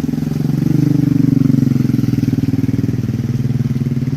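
Heavy truck's diesel engine labouring up a steep climb in second gear, a loud low rapid pulsing that swells about a second in and then eases slightly; the truck is struggling to make the grade in that gear.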